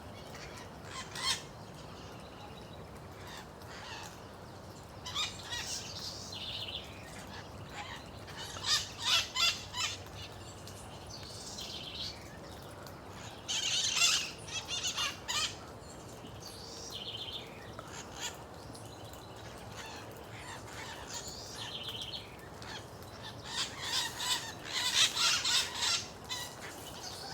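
A flock of birds, more than thirty, calling from a tree crown: repeated bursts of high-pitched chattering calls, loudest about 14 s in and again near the end.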